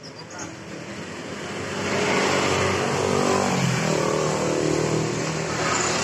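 Honda CBR250RR's parallel-twin engine running, its pitch rising and falling as it is revved, growing loud about two seconds in and stopping suddenly at the end.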